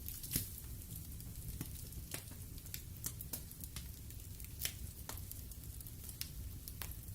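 Wood fire burning in a fireplace, crackling with irregular sharp pops, the loudest about half a second in and again at about four and a half seconds, over a steady low rumble of the flames.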